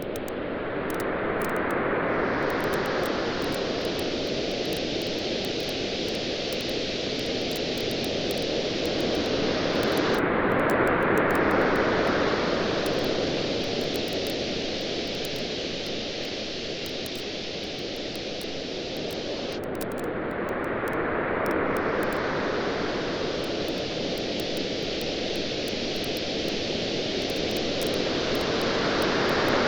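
Surf washing on a beach in slow swells about every ten seconds, over the steady hiss of a campfire with many fine, sharp crackles.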